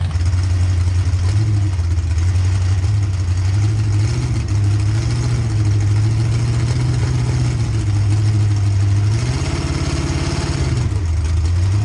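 1,800-horsepower mud racing truck engine idling loud and lumpy while it is lined up at the start, its note rising slightly twice as it is blipped.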